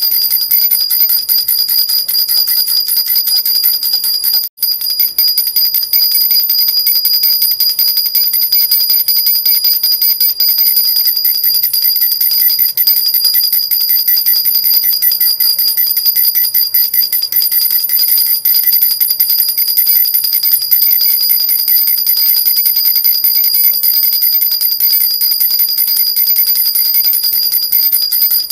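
Metal jhunjhuna baby rattle shaken without pause, a dense steady jingling with high ringing tones. It breaks off for a split second about four and a half seconds in.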